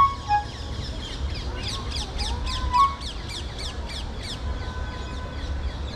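Birds calling outdoors: a rapid series of short, high, falling chirps, densest in the first half, over a steady low rumble.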